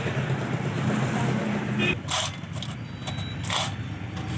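An engine running with a rough, steady low sound that drops in level about two seconds in, with two short hissing bursts after it.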